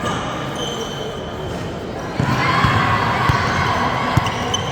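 Basketball game in a gym: the ball bouncing on the court under a crowd of spectators, whose voices rise into cheering and shouting about two seconds in.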